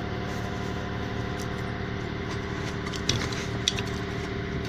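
Steady machine hum running throughout, with a few light clicks and knocks about three seconds in.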